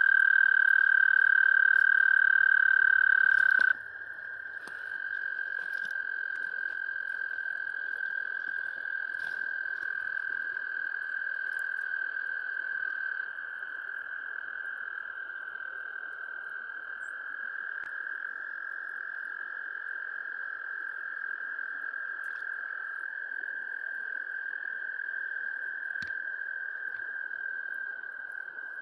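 Frogs calling: a long, unbroken high-pitched call, loud for the first few seconds and breaking off suddenly about four seconds in, after which quieter overlapping calls from other frogs carry on steadily.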